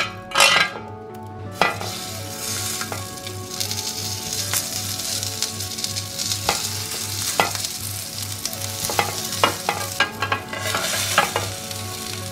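Vegetable tikkis sizzling in hot oil on a ridged grill pan, the sizzle thickening about two seconds in as the patties go down, with a few sharp clicks against the pan.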